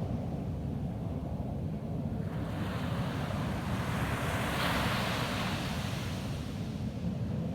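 Ocean waves on a sandy beach: a steady low surf rumble, with a wave breaking and washing up the shore whose hiss swells about two seconds in, peaks midway and dies away near the end.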